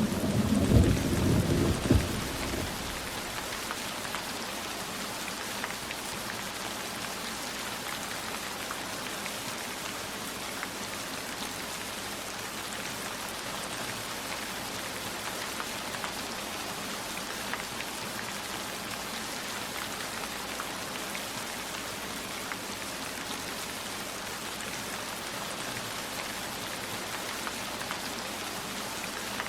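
Steady rain falling, with scattered drop ticks. A low rumble of thunder in the first two seconds or so dies away into the rain.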